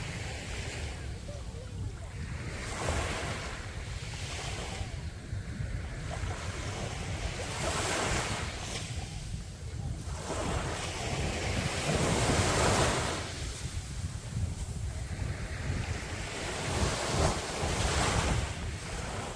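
Sea waves breaking and washing up the beach, surging every few seconds with the largest swells a little before halfway and near the end. Wind buffets the microphone with a constant low rumble.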